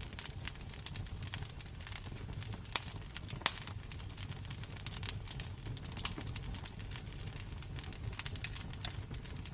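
Wood fire crackling in a fireplace: a steady run of small snaps and pops over a low rumble, with two louder pops about three seconds in.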